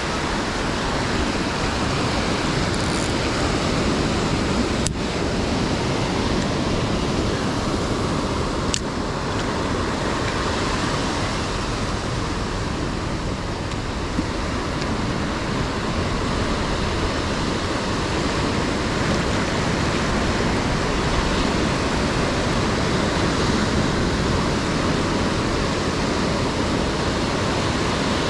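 Ocean surf washing onto the beach in a steady, even rush of noise.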